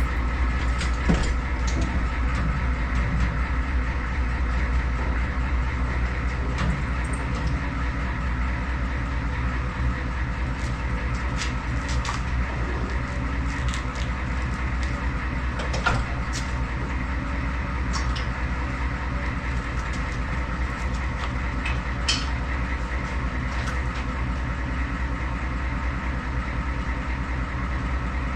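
Steady low machine hum with a few light clicks and knocks scattered through it.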